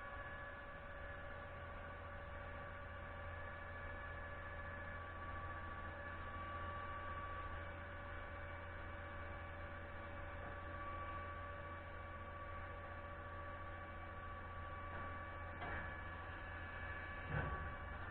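A steady mechanical hum with several held tones, broken by a faint click and then a short knock near the end.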